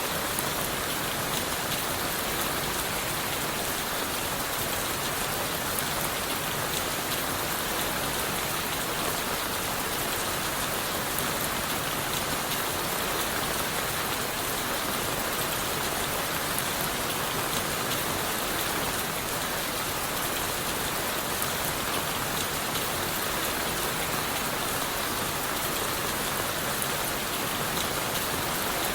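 Steady rain falling on leaves, wood and the forest floor: an even hiss of many drops with fine patter, unchanging in level.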